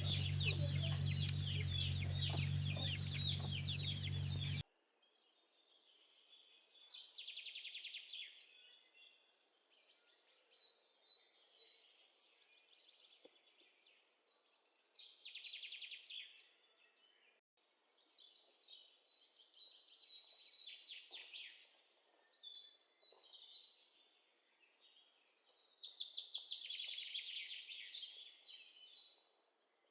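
Chickens clucking with other birds calling around them. About four and a half seconds in, the louder, fuller sound cuts off abruptly, leaving fainter high call bursts that come and go every few seconds.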